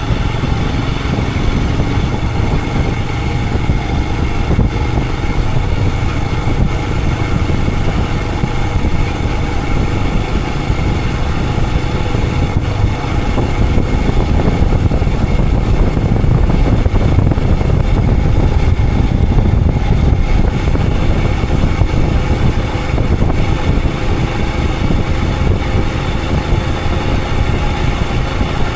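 Royal Enfield Himalayan 411's single-cylinder engine running steadily on the move, a constant low rumble that grows slightly louder in the middle.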